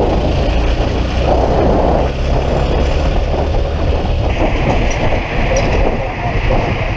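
Riding noise on a moving Yamaha FZS25 motorcycle: steady wind and road noise with the engine running underneath.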